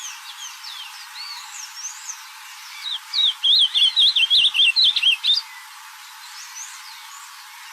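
Ultramarine grosbeak (azulão) singing: one loud, rapid, warbling phrase of about two seconds, starting about three seconds in. Fainter chirps and whistles come before and after it.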